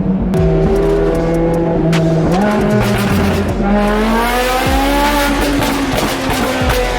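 High-revving supercar engines accelerating and shifting, the pitch climbing and dropping several times, with scattered sharp exhaust cracks.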